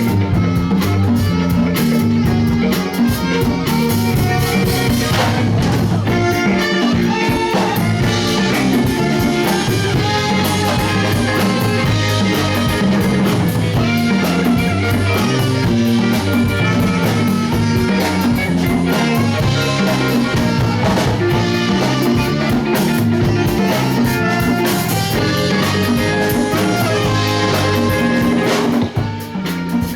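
Live band music: guitar over bass and drum kit, playing continuously with a short drop in level near the end.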